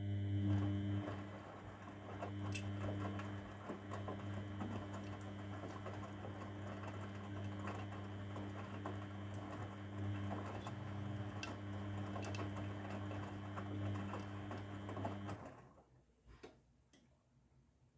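Grundig washing machine running a wash phase: a steady motor hum with a rustling, clicking wash noise over it, stopping suddenly about fifteen seconds in, followed by a couple of clicks.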